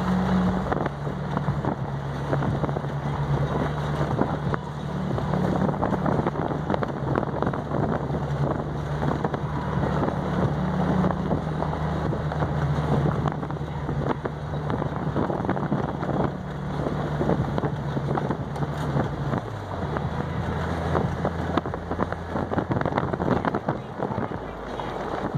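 Mini bike's small engine running at a steady speed, with wind noise on the microphone. The engine note drops about three quarters of the way through, as the bike slows.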